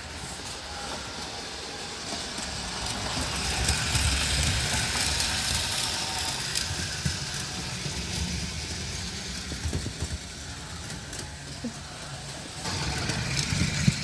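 O-scale model train running on its track: the Menards F7 locomotive's motor humming and the wheels rattling along the rails. It grows louder about four seconds in, eases off, then comes up again near the end as it passes the microphone.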